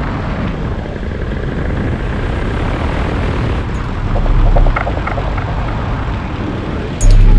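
Onboard audio from a flying drone: steady rushing wind and propeller noise, with heavy low wind buffeting on the microphone about four seconds in and again near the end.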